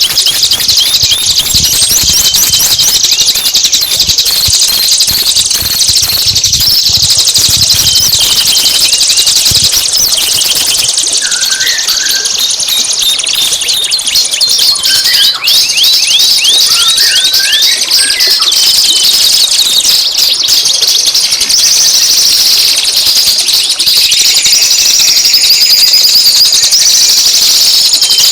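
Songbird song: a loud, unbroken stream of rapid, high-pitched chattering notes and trills, with a few lower chirps about halfway through.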